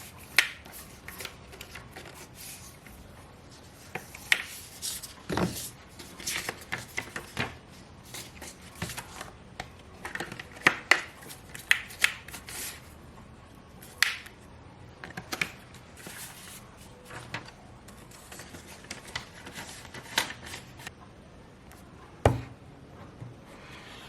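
Close handling sounds of unboxing: scattered clicks, taps and rustles of packaging, with a few sharper knocks, the last one about twenty-two seconds in.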